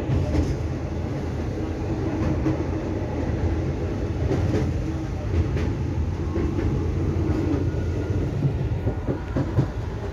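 Deccan Queen Vistadome passenger coach running at speed, heard from inside: a steady low rumble of wheels on rail, with occasional sharp clicks that come more often near the end.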